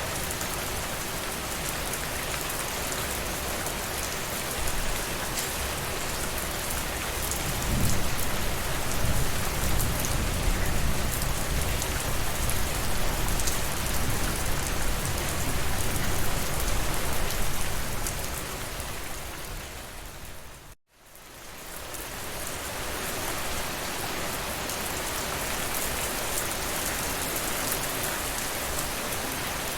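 Steady rainfall. A low rumble swells under it for several seconds in the middle. About two-thirds of the way through, the sound fades briefly to silence and then swells back in, like a loop join.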